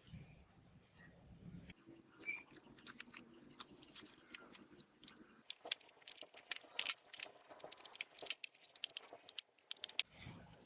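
A faint low hum that stops abruptly about two seconds in, then a string of quick, sharp clicks and clinks of small hard parts being handled, busiest in the second half.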